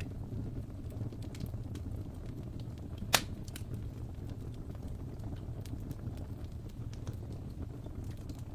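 Wood fire burning in a fireplace, with a steady low rush and scattered crackles and pops; one sharp, much louder pop about three seconds in.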